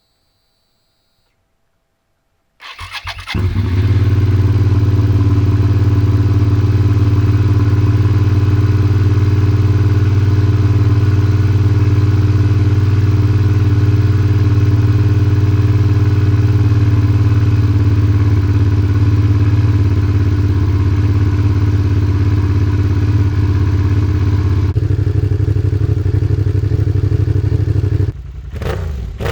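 Gen 2 Suzuki SV650's V-twin, fitted with an Arrow exhaust, cold started: after near silence the starter cranks briefly about two and a half seconds in, and the engine catches and settles into a loud, steady idle. Near the end the sound drops and turns uneven as the revs begin to change.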